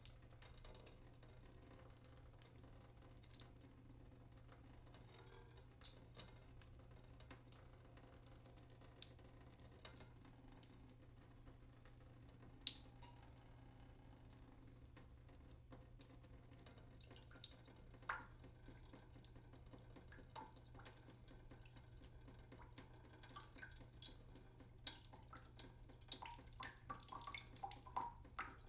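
Faint, irregular water drips, sparse at first and coming more often toward the end, some with a short plinking pitch, over a faint steady low hum.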